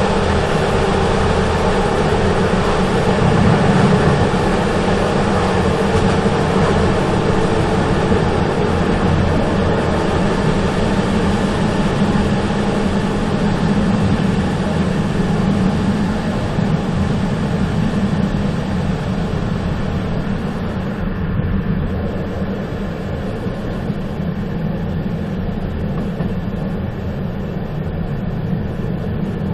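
A moving train's steady running noise, dense and unbroken, easing slightly and losing some of its high end about two-thirds of the way through.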